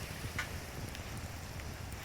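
Steady low rumble of wind on the microphone, with a faint tick about half a second in.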